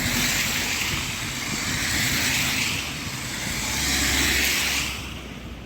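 A car driving past on a snow-covered road, tyre noise from snow and slush plus a low engine sound. It grows loudest about four seconds in, then fades away.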